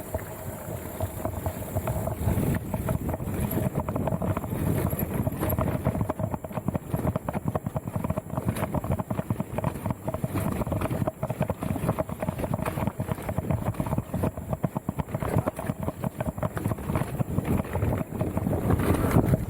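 Mountain bike rolling over a rough trail: a steady clatter of rapid knocks and rattles from the bike, with wind rumbling on the microphone.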